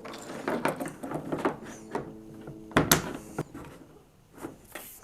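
Handling noises as a rope carry handle is threaded and knotted onto a plastic kayak: a string of light clicks and taps, with one sharp knock about three seconds in.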